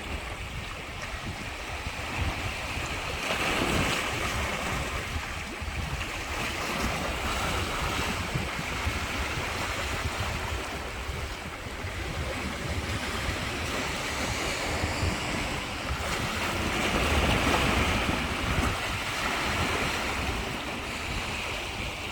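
Sea waves washing onto the shore, swelling about four seconds in and again past the middle, with wind buffeting the microphone.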